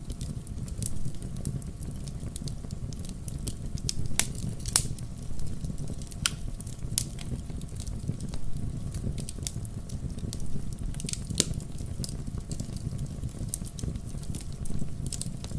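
Wood fire burning in a fireplace: a steady low rumble of the flames with irregular sharp crackles and pops, a few a second.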